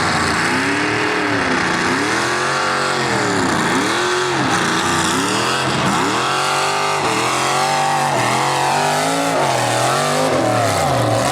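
Mini rod pulling tractor's alcohol-injected big-block Chevy V8 running loud under load, its engine speed rising and falling over and over as the throttle is worked during the pull.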